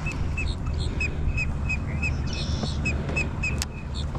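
A bird chirping over and over in short, sharp notes, about three a second, over a low rumble of wind on the microphone.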